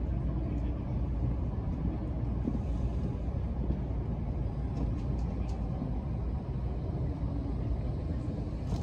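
Inside the cabin of an N700S Shinkansen train running along a station platform: steady low running noise of the train, with a few faint clicks.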